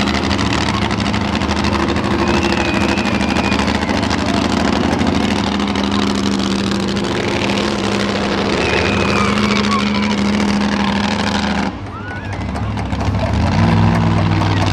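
Monster truck engines running loud and hard under throttle, a steady heavy engine note. About twelve seconds in it cuts off abruptly, and a lower engine note rises near the end.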